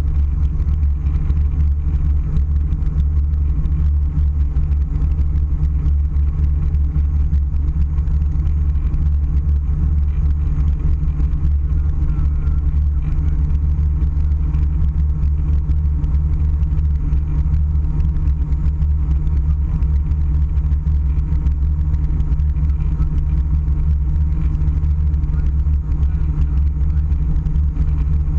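Steady low rumble of engine and airflow noise inside an airliner's passenger cabin, on the descent to landing.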